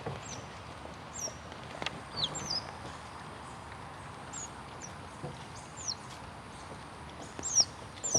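Otter pups chirping: short, high-pitched squeaks that slide downward, coming in little clusters, loudest near the end.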